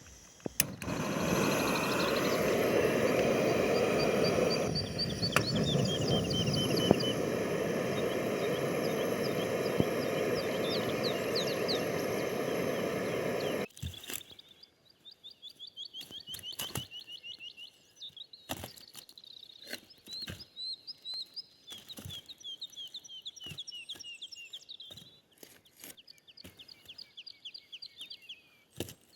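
Songbirds singing in repeated short descending trills. For the first half they are over a loud steady rushing noise that cuts off suddenly about fourteen seconds in; after that, scattered sharp clicks and cracks sound between the songs.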